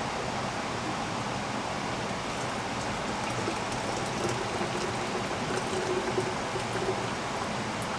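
Steady rain falling, an even hiss of rainfall, with a few light ticks and a faint trickling tone about halfway through.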